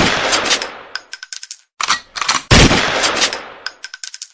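A burst of sharp cracks ending in a loud bang with a fading ringing tail, like gunfire. The same sequence plays twice in a row, as an identical repeat.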